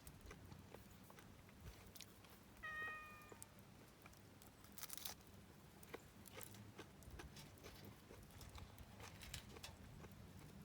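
Faint, scattered clicks and crackles, with one short squeaky, meow-like cry about three seconds in.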